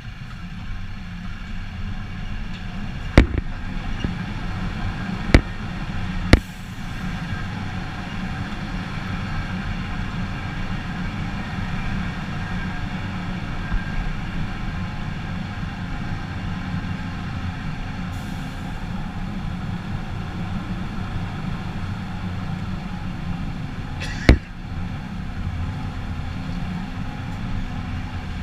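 Heavy truck diesel engine running steadily with a low rumble, broken by a few sharp knocks or cracks, the loudest about three seconds in and another near the end.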